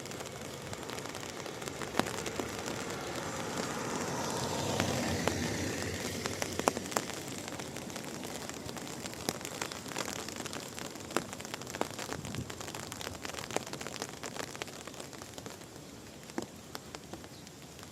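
Steady rain, with many irregular sharp ticks of drops landing close by. A louder rushing swell builds to a peak about five seconds in and then fades.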